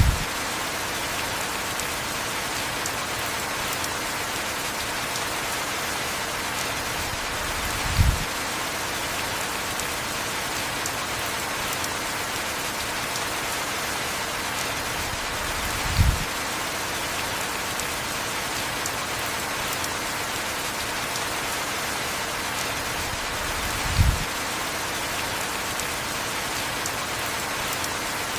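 Heavy rain falling steadily, an even hiss. A short low thud comes every eight seconds, four times in all.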